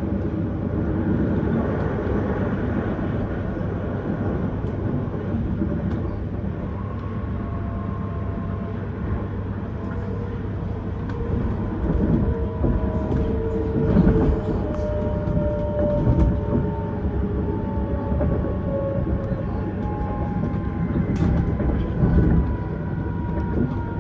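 Vienna S-Bahn electric train running, heard from on board: a steady rumble of wheels on rail with an electric whine that falls slowly in pitch, and several louder knocks in the second half.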